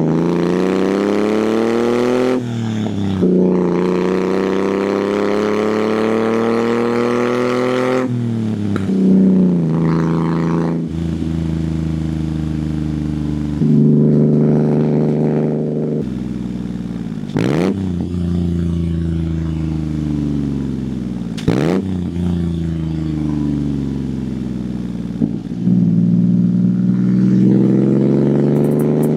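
1997 Honda Acty kei truck's 660 cc three-cylinder engine under way, pulling through the gears. The engine note rises and drops sharply at shifts about two and eight seconds in, then mostly holds steady, rising and falling with the throttle. It sounds like a little motorcycle.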